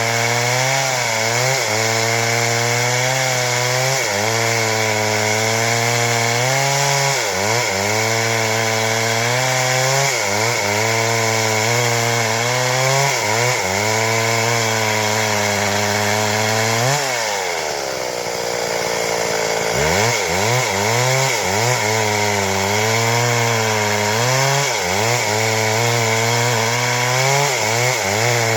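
Stihl MS 382 two-stroke chainsaw running at full throttle while cutting wood, its pitch wavering under the load of the cut. About 17 seconds in the engine drops briefly toward idle, then revs back up into the cut.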